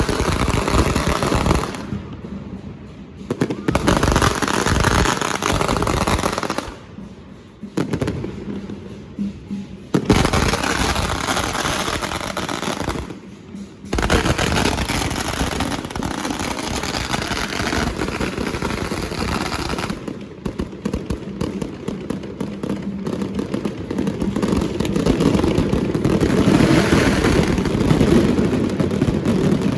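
Fireworks display: a dense run of bangs and crackling pops, broken by several abrupt cuts where the sound drops and starts again.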